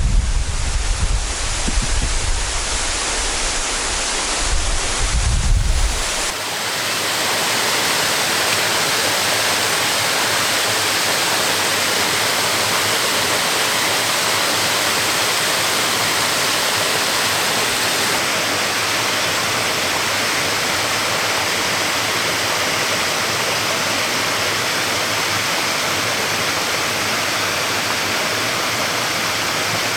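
Steady rushing of a waterfall. For about the first six seconds, wind buffeting the microphone adds an uneven low rumble; then the sound cuts abruptly to falling water alone, even and unbroken.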